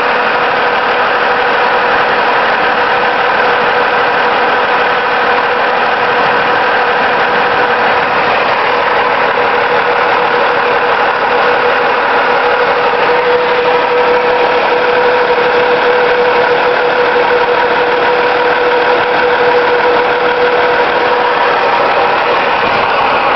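Garbage truck engine idling steadily: a constant drone with a held tone and no change in speed.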